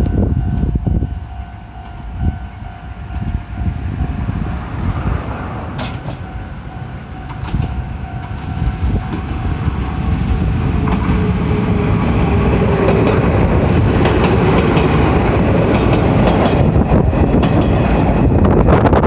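A train approaching and passing close by: its rumble and rail noise build over the first half and run loud through the second. Low gusts of wind hit the microphone at the start.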